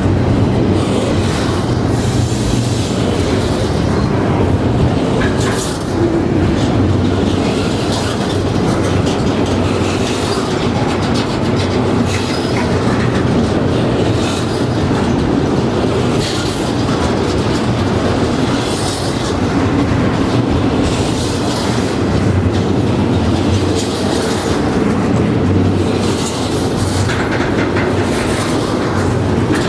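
Norfolk Southern freight train rolling past close by: a steady rumble of railcar wheels on the rails with rhythmic clatter over joints and brief high wheel squeals now and then.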